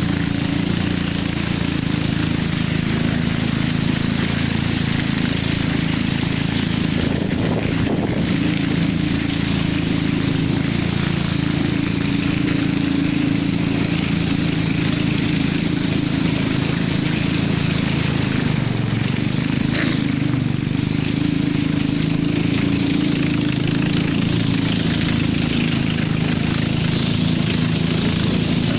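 Motorboat's outboard engine running steadily at cruising speed, with the rush of water and wind over the hull.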